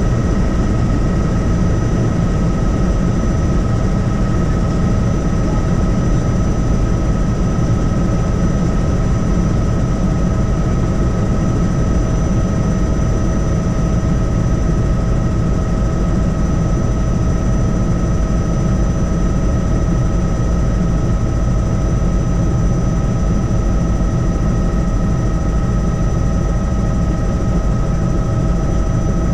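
Helicopter in flight: steady engine and rotor noise with a deep rumble and a constant high whine over it.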